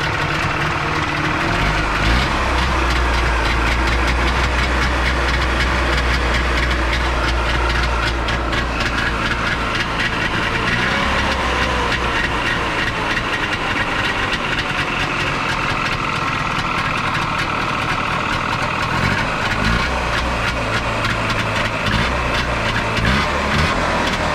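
Trabant 601's air-cooled two-cylinder two-stroke engine running with a tuckering beat, its speed shifting a few times. This is the nasty running noise the owner is trying to trace.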